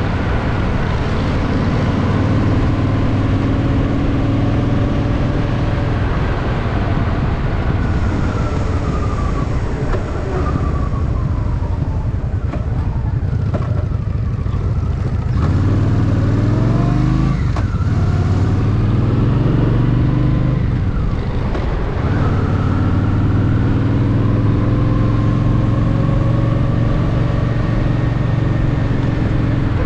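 Honda Shadow VT750's V-twin engine running on the move, its pitch dropping off about halfway through and then climbing again as it accelerates.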